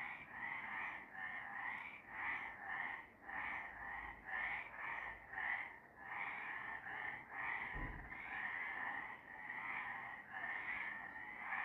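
Several frogs calling together in a dense, overlapping chorus that pulses about two to three times a second. A brief low thud comes about eight seconds in.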